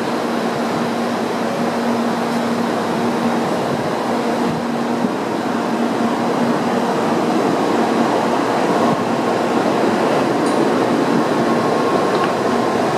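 N700-series Tokaido Shinkansen train rolling slowly past into the platform: a steady rumble of wheels and running gear with a low hum, and a higher tone later on.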